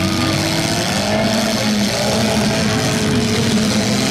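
Several four-cylinder demolition derby cars' engines running and revving together, their pitch rising and falling.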